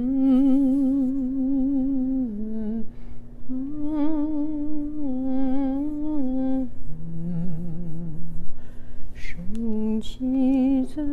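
A woman singing a slow melody to herself in long held notes with vibrato, the pitch stepping up and down between notes. A few short clicks come near the end.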